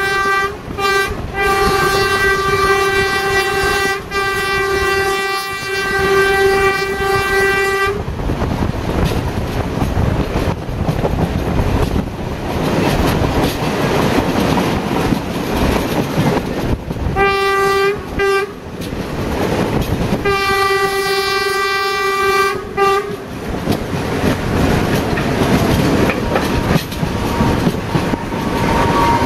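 Diesel passenger train running along the line with its horn sounding: a long blast of several seconds broken by a few brief gaps, then two short toots and another blast of two to three seconds. Between the blasts come the rumble and clatter of the wheels on the track, heard loud through an open carriage window.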